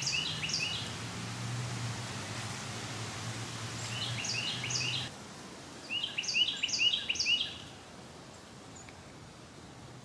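A songbird singing short songs of quickly repeated high chirping phrases, one about four seconds in and a longer one about six seconds in. A faint low hum lies underneath and stops about halfway.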